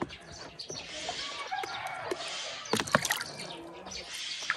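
Water splashing and sloshing as a young call duck bathes and paddles, with a few sharper splashes about three seconds in.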